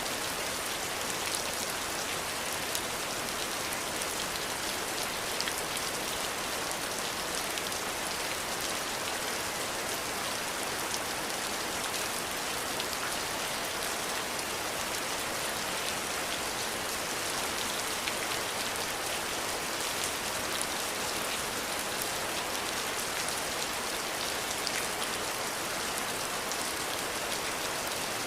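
Steady rain falling, a constant hiss of rainfall with fine scattered drop patters and no thunder.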